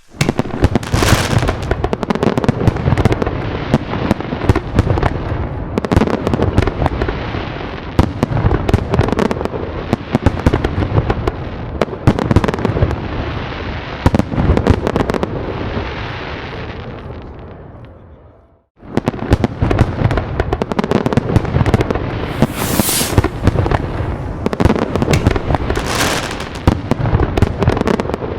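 Fireworks going off in a dense barrage of bangs and crackling. Partway through it fades and cuts out for a moment, then starts again just as dense.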